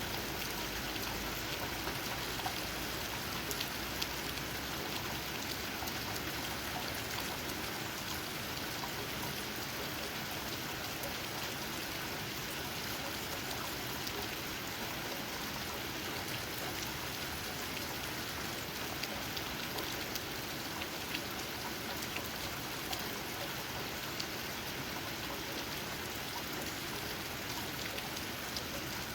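Steady rain falling, with raindrops pattering on leaves; scattered sharper drop ticks stand out now and then over the even hiss.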